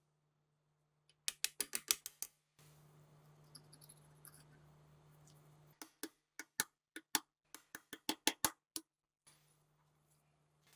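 Two quick runs of sharp clicks and ticks from handling parts during an MG3 machine gun rebuild. The first comes about a second in. The second, longer run comes after a few seconds of steady low hiss.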